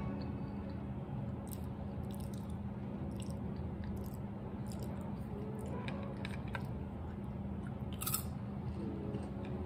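Close-miked chewing of crunchy food, with scattered short crisp crackles, the loudest about eight seconds in.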